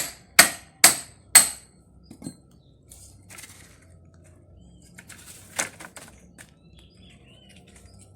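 A run of sharp, ringing strikes about two a second, like blows with a hammer or hatchet while small firewood is broken up, stopping about a second and a half in. After that come only a few faint knocks and taps.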